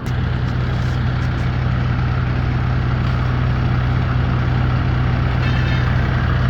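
A large engine of construction machinery idling steadily, with a constant low hum and no change in speed.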